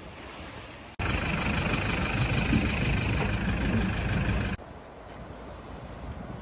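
Vehicle engine running close by, at a ford in floodwater; the sound starts abruptly about a second in and cuts off abruptly past the middle, with wind and water noise before and after.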